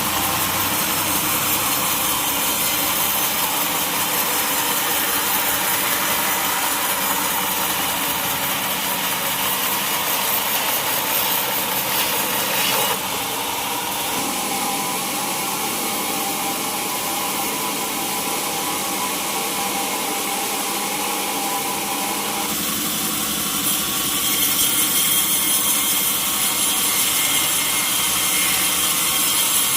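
Sawmill saw cutting lengthwise through a large mahogany log: a continuous hissing rasp of the blade in the wood. It drops a little about halfway through and grows louder again near the end.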